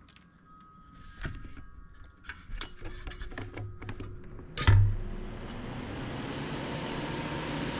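Small clicks and taps of tools being handled at a soldering bench, then a heavy thump about two-thirds of the way in. A steady rushing noise starts right after the thump and keeps on.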